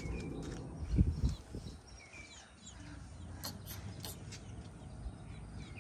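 Faint birds chirping in the background, a few short chirps, over a low rumble with a soft thump about a second in.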